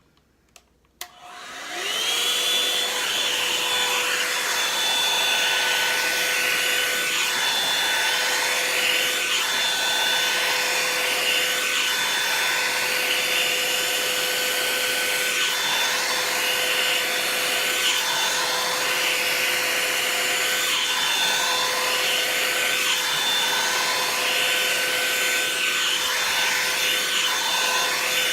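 Revlon paddle-brush hair dryer switched on about a second in, its motor spinning up with a rising whine and then running steadily on the high setting with rushing air.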